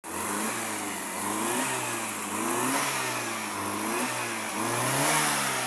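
A100 engine running, its speed rising and falling a little.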